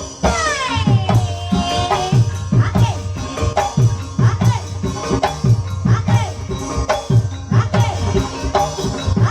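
Ebeg (kuda kepang) dance music: drums struck in a steady rhythm, their strokes bending down in pitch, with a shaken rattle over them. A long tone slides down in pitch about half a second in.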